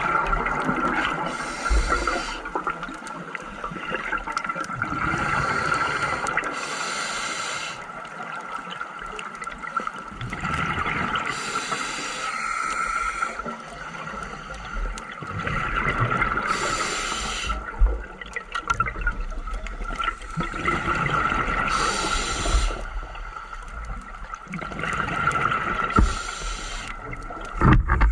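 Scuba diver breathing through a regulator underwater: a bubbling rush of exhaled air about every five seconds, with quieter inhales between, over a steady faint hum.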